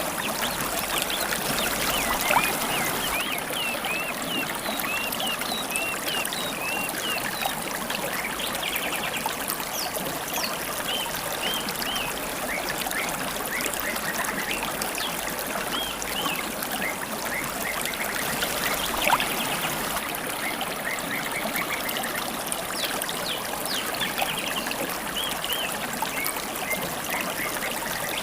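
Shallow river water running and trickling over stones, with wild songbirds chirping over it in many short, quick notes.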